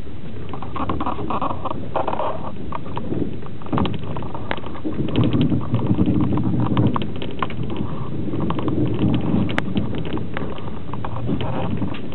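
Passenger train carriage moving slowly out of a station: a steady low rumble with many irregular clicks and clatters from the wheels on the track. It is heard from inside a platzkart sleeper car, and the clatter grows denser and louder about five seconds in.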